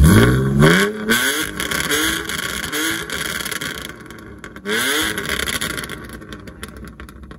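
BMW E46 coupe's straight-six being revved hard while parked: a string of quick throttle blips in the first three seconds, a dip, another sharp rev about four and a half seconds in, then the engine dropping back toward idle. The exhaust is loud.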